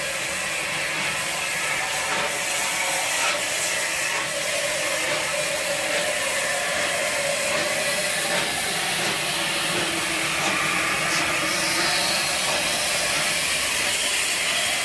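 Steam locomotive standing at the platform, letting off a steady hiss of steam.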